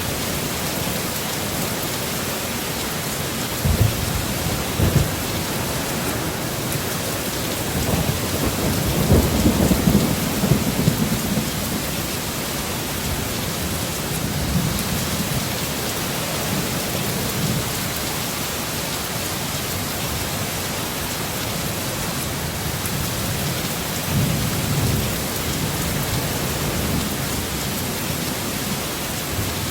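Heavy, steady rain with rolling thunder: two short rumbles about four and five seconds in, a longer, stronger rumble a few seconds later, and a softer one near the end.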